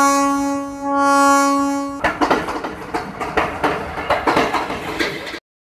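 Train horn sounding two long blasts, followed by the clacking and rattling of the train's wheels and cars on the track, which cuts off suddenly shortly before the end.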